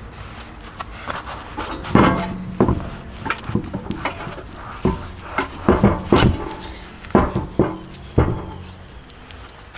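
A series of irregular knocks and clatters, about a dozen, mostly in the middle of the stretch, over a steady low hum.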